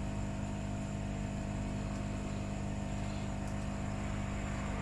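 Steady electrical hum with a faint hiss, several low steady tones held without change, from bench equipment running.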